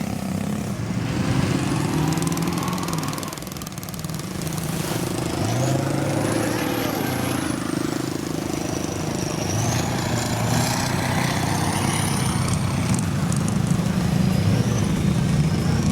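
Off-road vehicle engines revving, pitch rising and falling, with a high whine that glides up and down over them.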